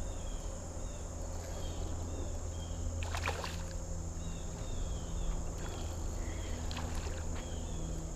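Water sloshing and splashing at the creek while a fish is being played, over a steady high insect drone with faint repeated chirps. A brief louder splash or rustle comes about three seconds in.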